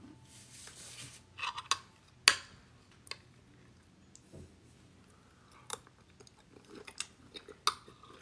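A person chewing food, with sharp clicks and scrapes of a metal knife and fork against a disposable aluminium tray several times, the loudest a little over two seconds in.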